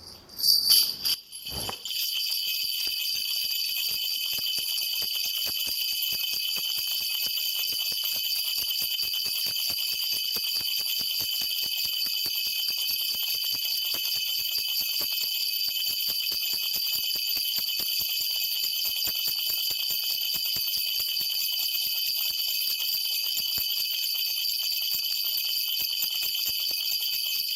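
A Korean shaman's ritual bell cluster (bangul) shaken continuously, a dense steady jingling, as she consults the spirits during a divination. It opens with a few louder, uneven shakes, then runs on at an even pace.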